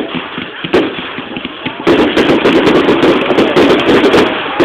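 Fireworks going off: a single bang at the start and another just under a second in, then from about two seconds a rapid barrage of many bangs and crackles.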